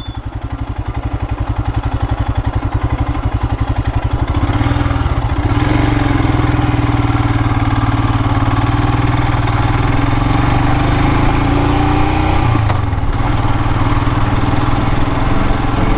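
Royal Enfield Himalayan's single-cylinder engine running on the move. It starts with a slow, evenly pulsing beat that grows louder over the first few seconds, then settles into a steady run, with a brief drop in the engine note about thirteen seconds in.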